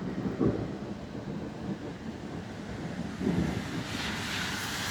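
Rushing noise of wind and rain on the microphone, swelling louder and hissier about four seconds in.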